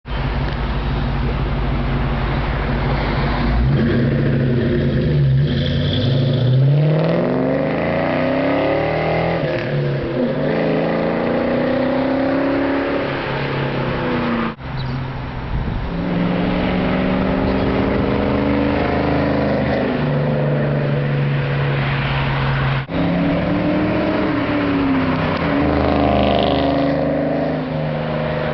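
2004 Ford Mustang GT's 4.6-litre V8 exhaust through Mac mufflers and an off-road H-pipe, running loudly as the car idles, revs and accelerates past, its pitch rising with each pull. The sound breaks off suddenly twice.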